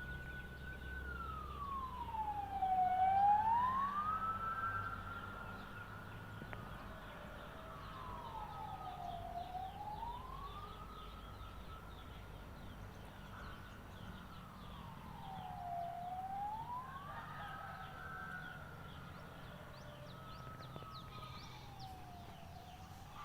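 A slow wailing siren: a single tone holds high, then sweeps down and back up, four times about every six and a half seconds.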